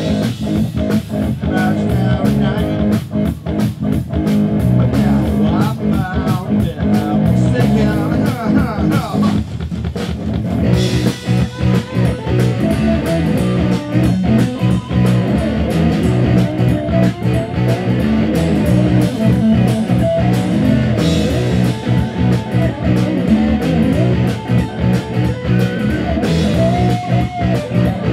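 Live rock band playing outdoors, electric guitar over a drum kit. The music thins briefly just before ten seconds in, then comes back fuller.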